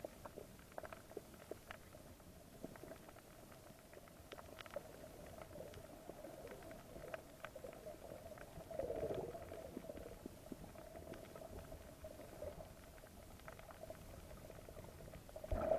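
Muffled underwater audio from a snorkelling camera: a steady faint hum with scattered small clicks and crackles, and a louder muffled swell about nine seconds in.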